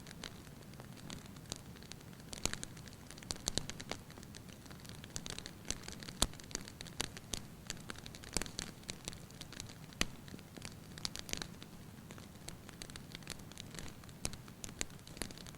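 Fire burning in a fireplace, crackling and popping irregularly over a low, steady rumble of flame, with several louder pops scattered through.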